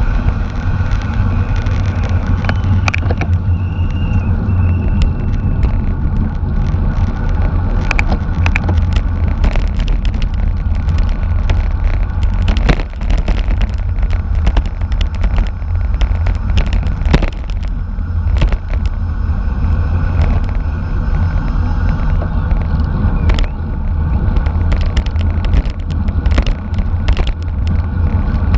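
Wind buffeting the microphone and road rumble while riding in a bicycle race, with frequent sharp clicks and rattles throughout and a brief high whine a few seconds in.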